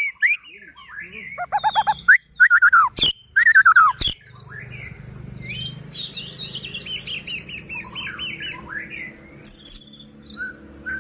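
White-rumped shama singing a loud, varied song of sliding whistles and fast repeated rattled notes, with pauses between phrases. Two sharp clicks come a little after the third and fourth seconds.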